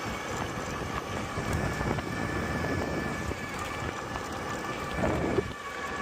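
Wind buffeting the microphone while riding an electric bike, with a faint steady high whine that is likely the bike's electric motor, and a brief bump a little after five seconds.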